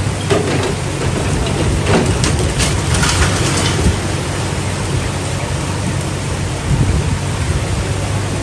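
A loud, steady rush of water. There are a few brief splashy crackles in the first four seconds, and a low steady hum runs underneath.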